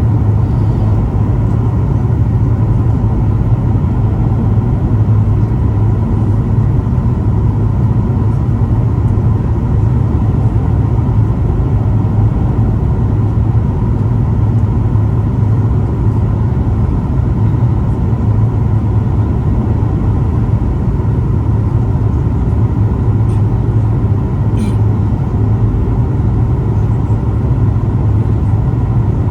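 Boeing 737 MAX 8 cabin noise: a steady low rumble of the CFM LEAP-1B engines and airflow, with a faint high whine and a couple of small clicks near the end.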